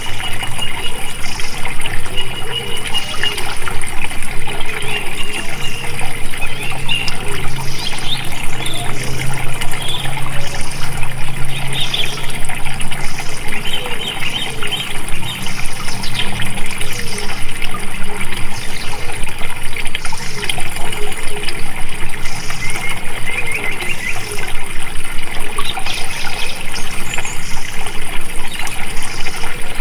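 Water flowing and splashing steadily, with birds chirping over it. A low hum sounds for several seconds in the first half.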